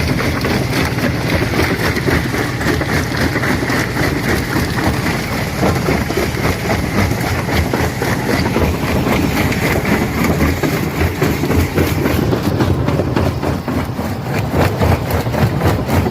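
Stone crusher working on rock: dense, continuous clatter and knocking of stones being broken and shaken, over a steady low machine rumble. About twelve seconds in, a high steady whine fades and separate knocks stand out more.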